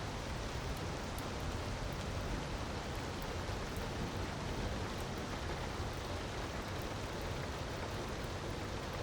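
Steady rushing of a waterfall mixed with a wood fire, its crackles faint and scattered.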